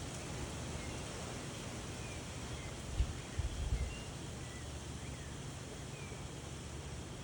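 Outdoor wind ambience, a steady hiss of moving air and rustling, with faint short bird chirps scattered through it. A few brief low thumps come about three seconds in.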